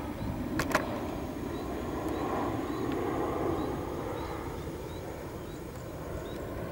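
Low, steady rumble of an approaching diesel locomotive, mixed with motorcycle engines waiting at a level crossing. Two sharp clicks come about half a second in, and faint high chirps repeat about twice a second.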